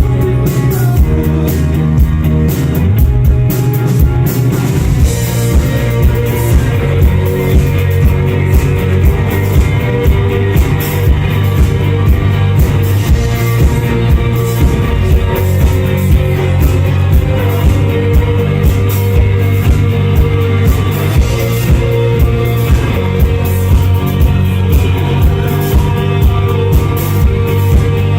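Rock band playing live: drums on a steady beat, electric guitars and bass, with a singing voice.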